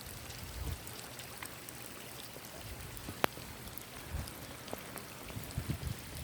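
Rain runoff running and pouring through a flooded street, a steady rush of water. A single sharp click about three seconds in, and a few low thumps later on.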